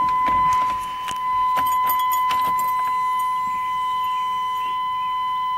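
Keys jangling and clicking as they are handled at a pickup truck's ignition, over a steady high-pitched tone.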